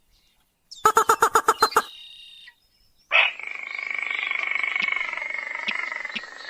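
Recorded lure calls of rails: a rapid run of about ten pulsed calls lasting about a second, then, after a short pause, a longer steady call with several pitches that lasts about three seconds.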